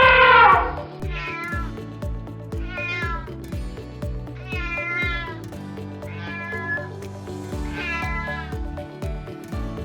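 Domestic cat meowing: a long, falling meow dies away in the first second, then five shorter meows follow about a second and a half apart. Background music with a steady beat plays underneath.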